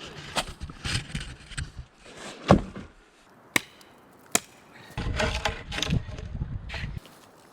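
Sharp knocks of wood being chopped or struck: about three separate blows, the loudest about two and a half seconds in. Stretches of crunching, rustling handling noise come before and after the blows.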